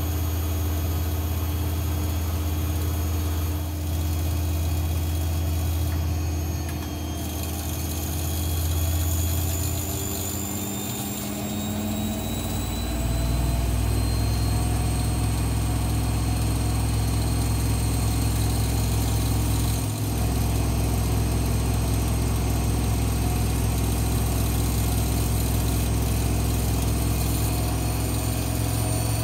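Washing machine motor running in a spin, its whine rising slowly in pitch over several seconds as the drum speeds up, then holding a steady, loud hum.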